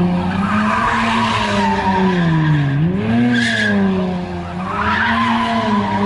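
A car's engine held at high revs while its tyres squeal and skid, as in a burnout or donuts; the engine note sags briefly about halfway through and then climbs back up.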